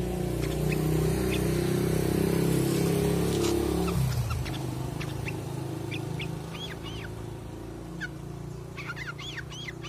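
Cucak kurincang songbird calling in short, arching whistled notes that start about halfway through and come quicker near the end. For the first few seconds a low droning hum, like a motor, is the loudest thing, then it fades away.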